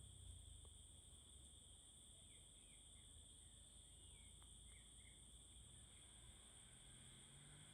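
Faint, steady high-pitched chorus of insects trilling. A few short bird chirps come in quick succession in the middle.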